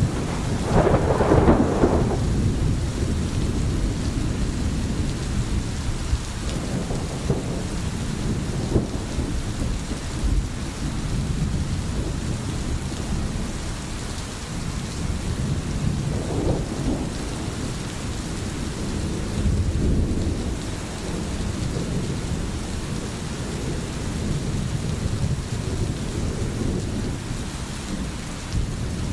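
Steady heavy rain with low rolling thunder. The loudest roll comes about a second in, and several softer rumbles follow.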